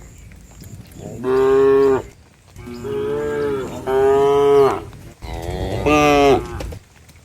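Cattle mooing: about four long moos one after another, some dropping in pitch at the end.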